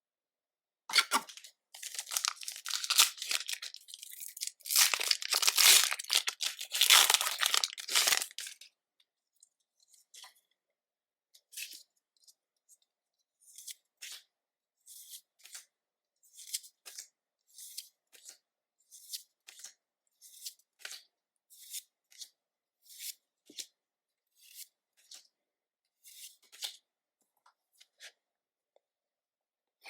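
A Pokémon booster pack's foil wrapper being torn open and crinkled for about eight seconds. Then comes a run of short, soft card slides, about one a second, as the cards are flipped through one at a time.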